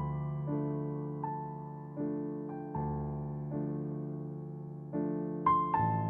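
Slow, calm piano music: soft sustained chords and single notes struck about once a second, each dying away before the next.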